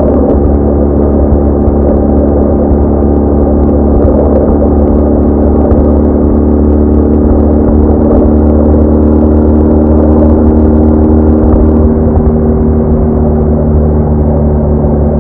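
BMW R1200R boxer-twin motorcycle engine running steadily at road speed, a constant loud drone with a slight change in pitch about twelve seconds in.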